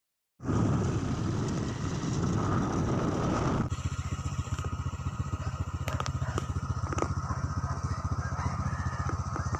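Motorcycle engine running, at first under a rushing noise for about three seconds, then settling into a steady, fast low putter like an idle, with a few light clicks.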